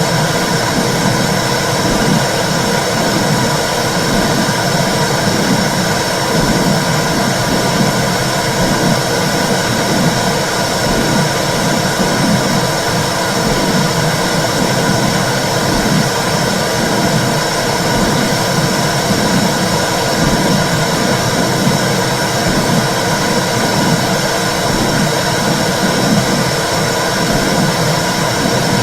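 Womb sound for soothing babies: a steady whooshing rush with a low rhythmic pulsing under it.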